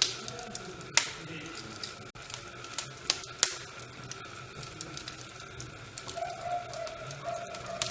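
Wood fire crackling, with irregular sharp pops and snaps over a low steady rustle; the loudest pops come about a second in and twice around three seconds in. A faint steady whistling tone joins from about six seconds in.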